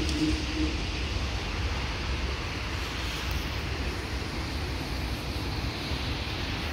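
Freight train of open-top wagons rolling past: a steady rumble of wheels on rail. A faint tone dies away in the first second.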